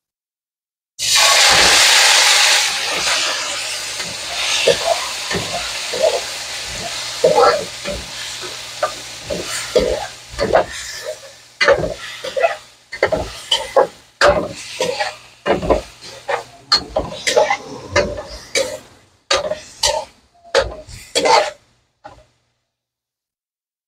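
Marinated beef liver pieces flash frying in hot oil in a stainless steel pan: a loud sizzle starts suddenly about a second in and slowly eases off. A metal spoon stirs and scrapes the pieces around, knocking against the pan many times, until the sound stops near the end.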